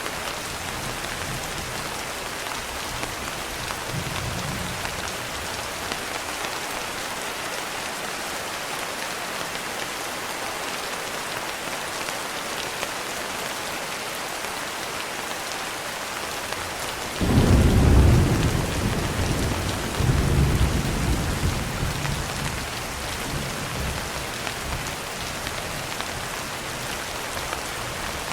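Steady rain falling, with a sudden clap of thunder about two-thirds of the way in that swells again a few seconds later and rolls away.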